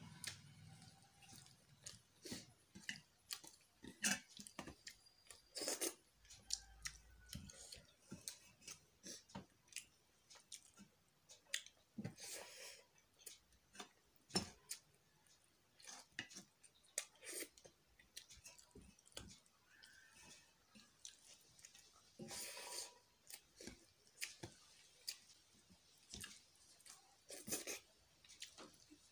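Close-up chewing and wet mouth sounds of someone eating rice and curry by hand: irregular small clicks and smacks, with now and then a longer soft scrape as fingers gather rice on a metal plate.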